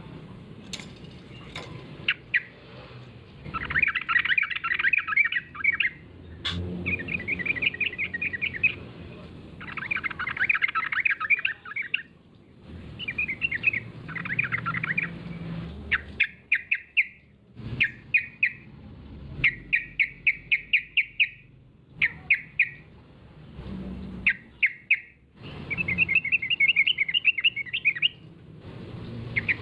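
Yellow-vented bulbul (trucukan) singing: repeated short phrases of rapid, bubbling chattering notes, each lasting one to two seconds, with brief pauses between them.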